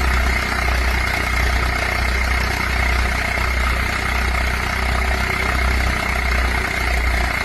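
Tractor engine running steadily at idle, with an even low throb.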